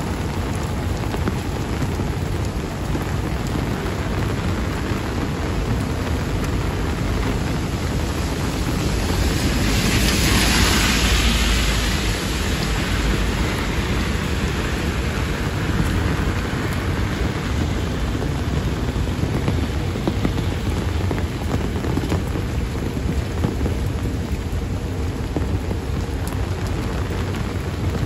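Heavy rain falling steadily on a wet road, with rainwater splashing. About ten seconds in, a louder rushing swell builds and fades over a few seconds.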